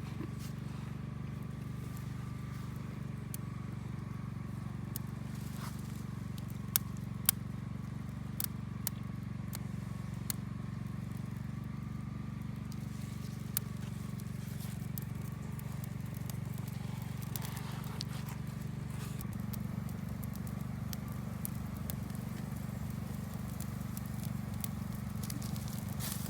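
Campfire crackling, with scattered sharp pops, the loudest a pair about seven seconds in, over a steady low rumble.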